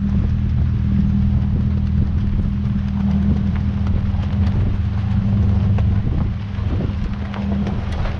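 Lexus GX470's 4.7-litre V8 and drivetrain humming steadily at a constant low pitch while driving a dirt trail, with a low rumble underneath.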